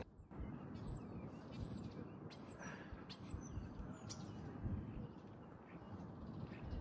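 Faint outdoor background noise with a small bird chirping high and short, about once a second, for the first few seconds.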